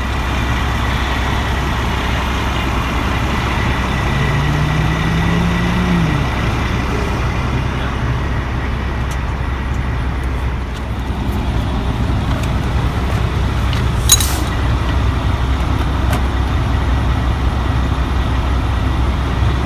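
Road traffic going by: a steady low rumble of passing vehicles, with one engine hum rising in pitch about four to six seconds in. A single sharp click sounds about fourteen seconds in.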